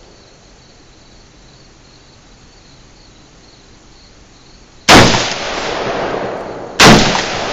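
Two rifle shots about two seconds apart, the second near the end, each followed by a long rolling echo. Before them, a faint steady insect buzz.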